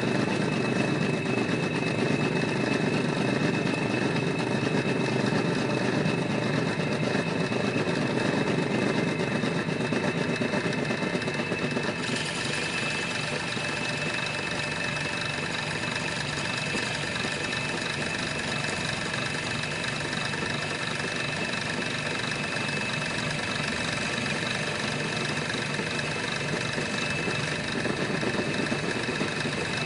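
Small motor of a DIY miniature sugarcane juice machine running steadily with a high whine. The sound changes abruptly about twelve seconds in.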